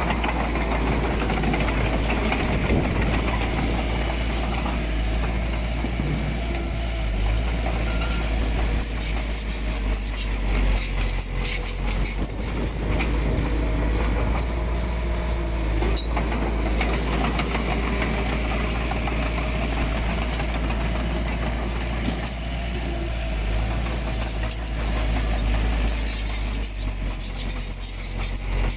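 Komatsu D20P bulldozer's diesel engine running steadily under load, a deep low drone, with bursts of metal rattling and clatter about nine seconds in and again near the end.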